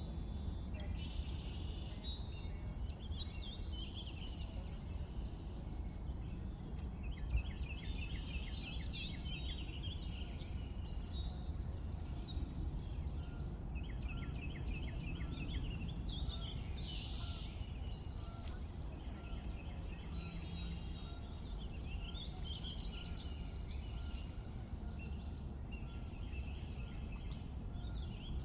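Small songbirds chirping and singing in short repeated phrases, several overlapping calls coming and going, over a steady low background rumble.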